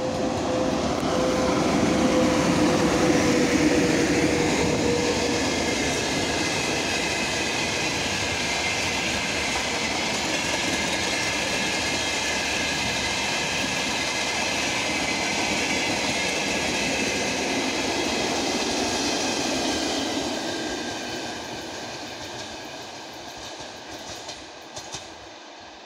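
A VL80k two-section AC electric locomotive and its train of flatcars and service cars passing close by, wheels rumbling over the rails. A steady hum is heard as the locomotive goes by in the first few seconds, then steady high-pitched tones from the passing wagons. The sound fades from about 20 seconds in as the train recedes.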